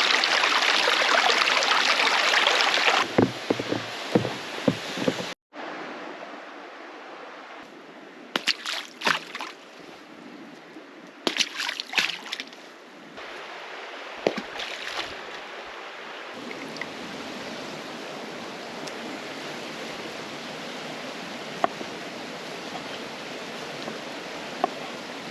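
Snow-covered mountain creek running, loud and close for the first few seconds, then quieter and steadier after a cut. Scattered sharp knocks and clatters come over the water sound.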